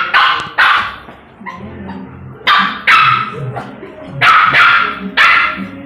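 A dog barking loudly and repeatedly, about seven barks coming roughly in pairs.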